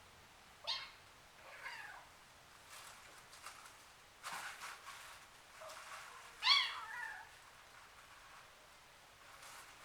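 Young kitten mewing: three short, high mews, one near the start, one a second later and the loudest about two-thirds of the way through. A brief scuffling noise comes between them.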